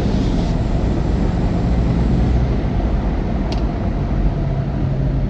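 Loud, steady running of a diesel pickup truck engine under hard throttle, its pitch settling lower about halfway through.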